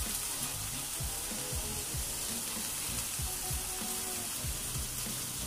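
Diced onion frying in oil in a nonstick wok over a gas burner at full heat, a steady sizzle with a few soft knocks, as chopped chives go into the pan.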